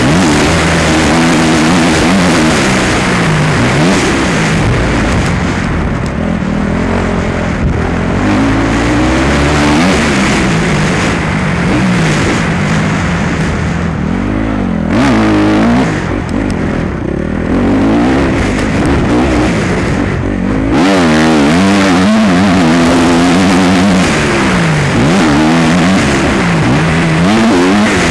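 Motocross bike engine revving hard and continuously, its pitch climbing and dropping again and again every second or two as the throttle opens and closes.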